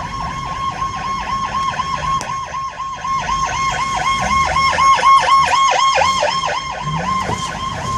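Police car siren in a rapid yelp, its pitch sweeping up and down several times a second without a break.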